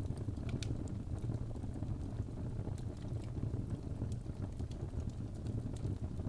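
Wood fire burning in a fireplace: a steady low rumble of flames with scattered sharp crackles and pops, several close together in the first second.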